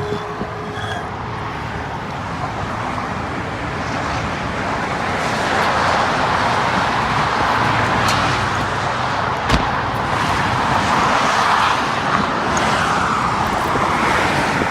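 Freeway traffic rushing past: a steady noise of tyres and engines that grows louder about five seconds in, with one sharp click a little past halfway.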